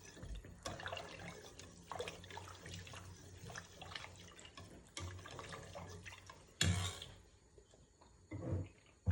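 Kitchen tap running faintly into a sink with small drips and clinks, stopping about six and a half seconds in with a short louder clatter. A second brief knock comes near the end.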